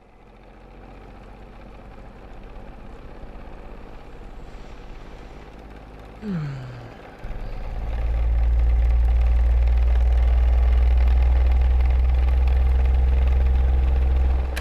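A low, steady machine-like hum that swells in over several seconds, preceded by a short falling pitch glide about six seconds in; the hum jumps to full loudness about seven seconds in and cuts off abruptly at the end.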